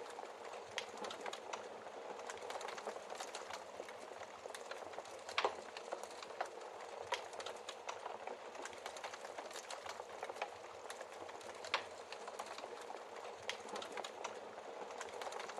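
Wood fire crackling in a fireplace: a steady hiss and flutter with many small snaps, and two louder pops, one about a third of the way in and one about three-quarters through.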